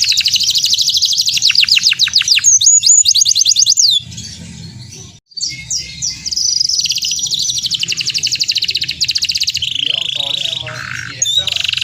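Domestic canary singing a fast, loud song of rapid trilled notes, high-pitched. It breaks off briefly about four to five seconds in, then goes on trilling.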